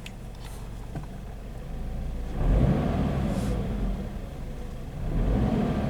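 2014 Scion FR-S's 2.0-litre flat-four boxer engine idling, then revved about two and a half seconds in and again near the end.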